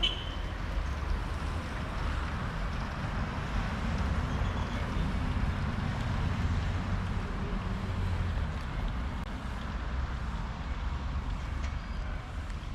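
Steady outdoor background noise, with a low rumble under a lighter hiss, and a short high chirp at the very start.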